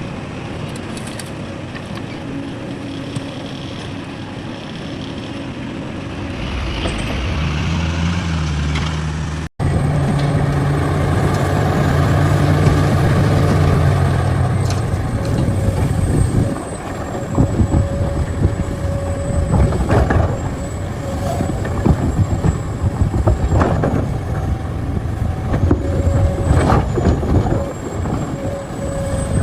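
Heavy diesel machinery running: truck and excavator engines with a deep steady drone. About ten seconds in the sound cuts briefly and changes, and after that a steady whine and scattered knocks and clanks join the engine.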